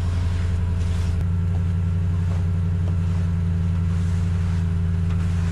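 Pickup truck engine running steadily at an even low pitch, which shifts slightly about a second in, while the truck packs down fresh snow on a driveway.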